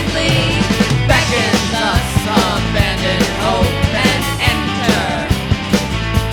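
Rock band playing an instrumental passage, with a steady drumbeat and sliding pitched lines over it.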